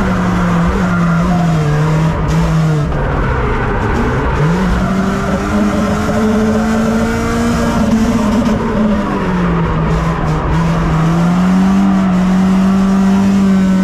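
BMW car engine driven hard around a race track, its note rising and falling with the throttle through the corners. About four seconds in it drops suddenly, then climbs back up.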